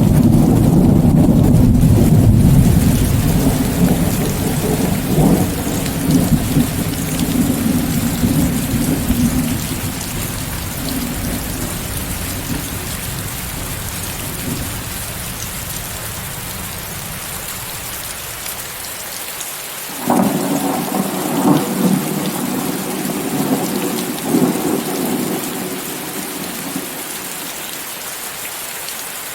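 Rainstorm with thunder over a steady hiss of rain. A long low rumble of thunder dies away over the first half. About two-thirds of the way through, a second peal breaks suddenly and rolls for several seconds, then only the rain remains.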